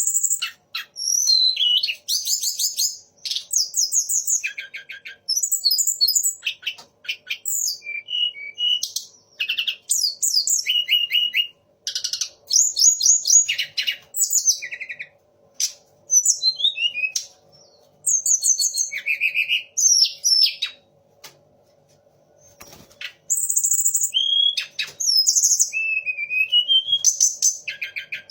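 A tledekan gunung songbird singing loudly in a long run of varied phrases: rapid stuttering trills, slurred whistles that rise and fall, and short chattering bursts, with brief pauses and one longer lull past the middle. Its song mixes in phrases of the magpie-robin (kacer), white-rumped shama (murai) and orange-headed thrush (punglor). A faint steady hum lies underneath.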